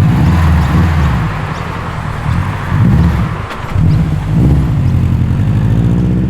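Subaru WRX STI's flat-four boxer engine running with its uneven boxer burble, revved up and back down twice, about three and four and a half seconds in.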